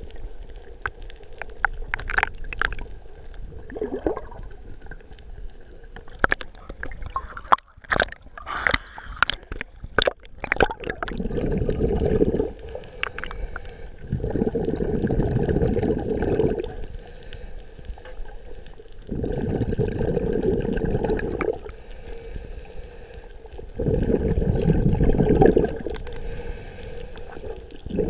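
A scuba diver breathing through a regulator underwater, heard inside a GoPro housing: bursts of exhaled bubbles about two seconds long, coming every four to five seconds. Before them, for the first ten seconds or so, there are splashes and sharp clicks.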